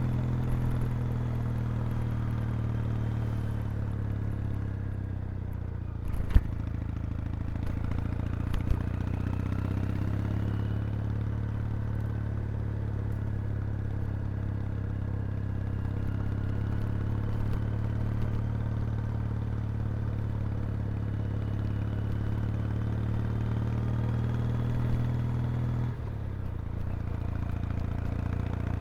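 Kawasaki W800's vertical-twin engine running through its exhaust at steady, low revs. A sharp click comes about six seconds in and a smaller one a couple of seconds later, and the engine note shifts and drops slightly near the end.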